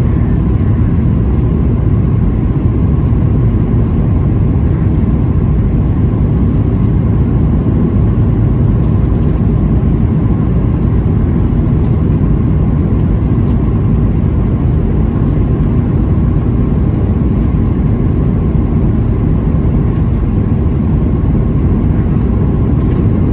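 Boeing 737-700 cabin noise: the CFM56-7B engines and airflow making a steady, even rumble, with a faint steady whine.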